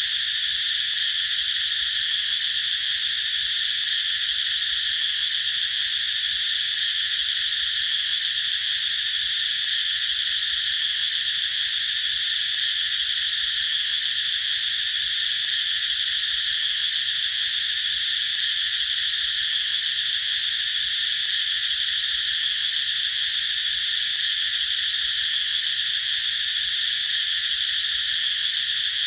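A chorus of cicadas buzzing steadily and continuously, a high shrill drone with no pauses or changes.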